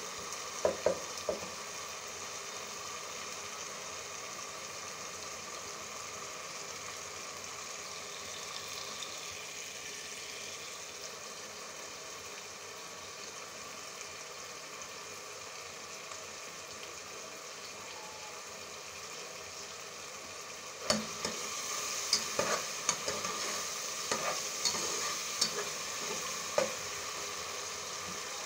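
Tomato-and-spice masala frying in ghee in a pot, a steady sizzle as the bhuna cooks the tomatoes down. A metal spoon stirs and knocks against the pot a few times at the start, then stirring gets louder and busier, with repeated clinks and scrapes, in the last third.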